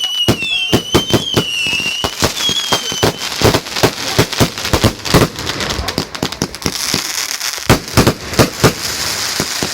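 Fireworks going off in rapid succession, a dense run of loud bangs. In the first few seconds whistling rockets glide down in pitch, and in the second half a steady crackling fizz runs under the bangs.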